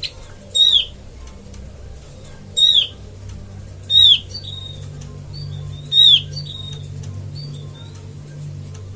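Opior (white-eye) lure call: four loud, short, downward-slurred whistled notes spaced one and a half to two seconds apart, with a few fainter notes between them. A steady low hum runs underneath.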